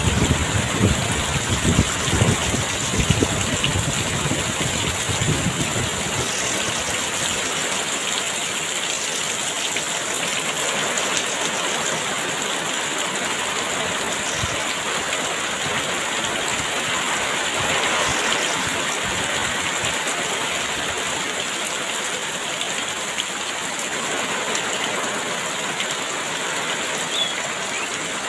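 Heavy rain falling in a dense, steady hiss. Gusty wind adds a low rumble over the first several seconds, then dies away.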